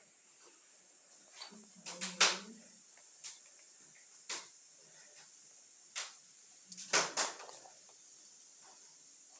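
A handful of short, sharp knocks and clacks, scattered and irregular, with the loudest about two seconds in and again about seven seconds in.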